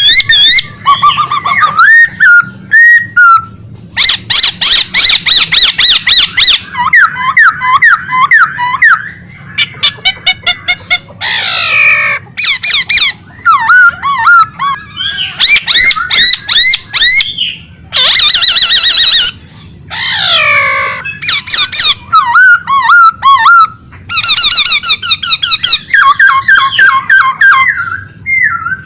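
Songbird singing vigorously and almost without pause, a loud, varied song of rapid trills, quick rising and falling whistled notes and chattering phrases, with a few brief breaks.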